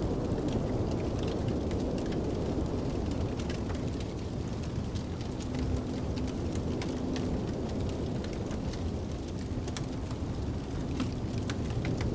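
Wood fire crackling with scattered sharp pops over the steady low rumble of snowstorm wind.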